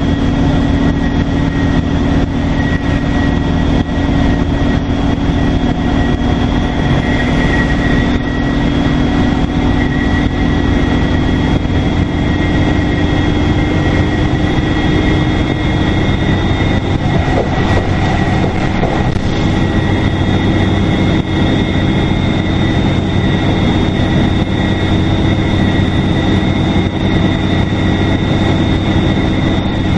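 Detroit Diesel Series 50 diesel engine of a 2002 NABI 40LFW transit bus running steadily under way, with a constant high turbocharger whistle over the low engine drone.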